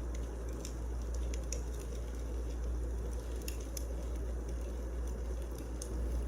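Wood fire burning in a fireplace: a steady low rumble and hiss with scattered sharp crackles and pops from the burning logs.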